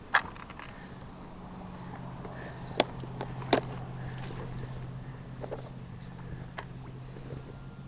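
A few sharp clicks or knocks, four in all, over a steady low hum.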